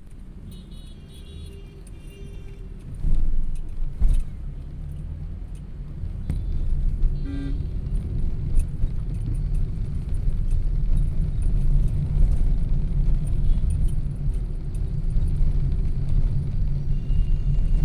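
Road vehicle rumble with a few short horn notes over it: faint high notes in the first couple of seconds and a brief toot about seven seconds in. The rumble grows louder about three seconds in.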